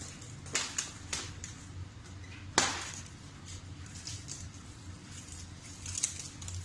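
Cardboard box and packaging of a miter saw being opened and handled: scattered crackles, rustles and light knocks, with one sharper snap about two and a half seconds in.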